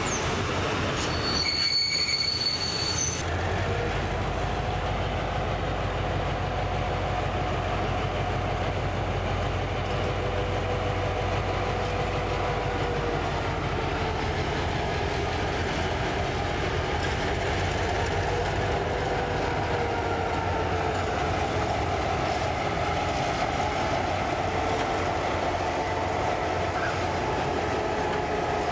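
A train running on rails, its wheels squealing in long, slowly wavering tones over a steady rumble. About a second in, a brief high steady tone sounds for about two seconds.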